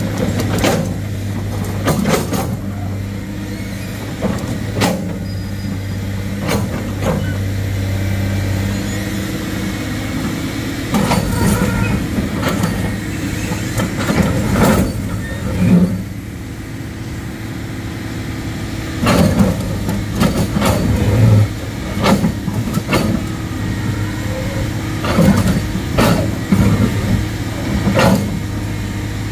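Heavy machine engine running, a steady hum for the first several seconds, then more uneven, with sharp knocks and clanks every second or two.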